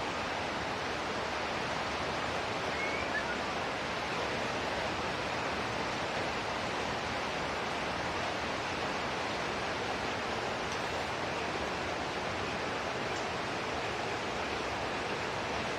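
Steady, unbroken hiss of falling water from a rain bath.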